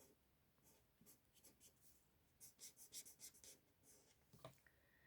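Faint scratching strokes of a marker tip colouring in on cardstock, in quick short runs about two and a half seconds in.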